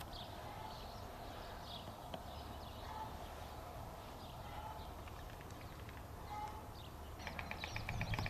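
White storks clattering their bills: a fast, even wooden rattle that starts near the end, over faint scattered bird chirps.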